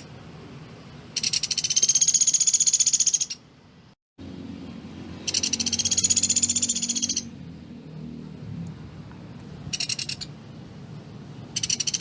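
Pelatuk beras woodpecker giving rapid, high-pitched rattling trills, each about two seconds long, with a short burst between the last two. This is the dense, rapid-fire song that keepers value in the species.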